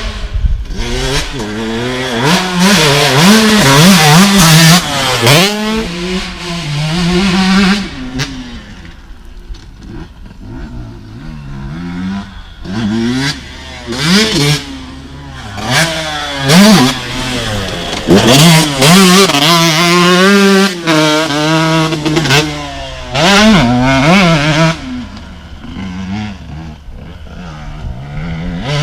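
KTM SX 125 two-stroke motocross engine revving hard, climbing in pitch and dropping back again and again, with quieter stretches where it falls to low revs.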